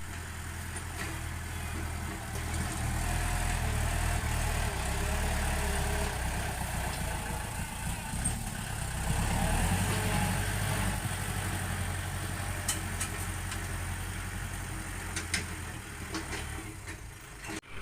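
Heavy vehicle's diesel engine running steadily, with a few light clicks in the second half.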